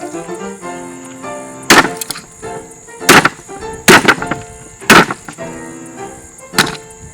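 A ceiling fan being smashed apart: five sharp, loud impacts, irregularly spaced about one to one and a half seconds apart, over background music with held notes.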